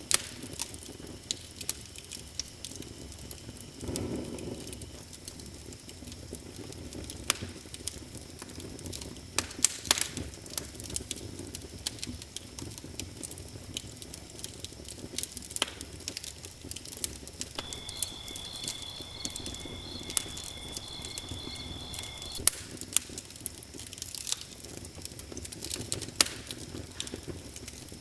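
Wood fire crackling in a fireplace: frequent sharp snaps and pops over a steady low rush of flame. A thin, high steady tone sounds for about five seconds past the middle.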